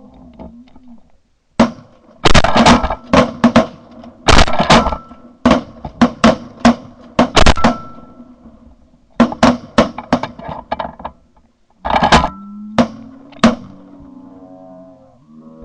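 A rapid volley of shotgun blasts from several hunters firing at once, about two dozen sharp reports in clusters between roughly 1.5 and 13.5 seconds in. Faint goose honking follows near the end.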